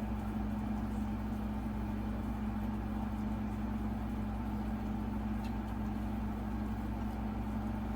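Steady machine hum with a constant low tone, with a faint click or two about five and a half seconds in.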